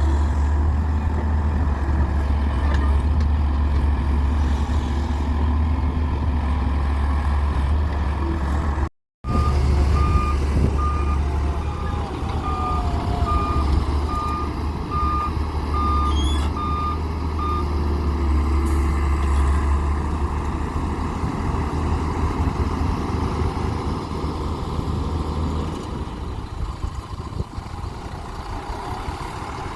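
Heavy diesel machinery running with a deep, steady engine drone as an excavator loads a tipper truck. From about ten seconds in, a reversing alarm sounds about eleven beeps, a little over one a second. The sound drops out for a moment about nine seconds in, and the engine drone fades near the end.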